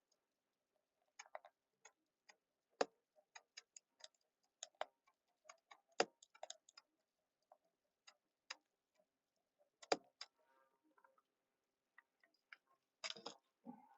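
Chicken wings grilling over a low flame, giving scattered, irregular sharp pops and crackles, with a quick cluster of them near the end.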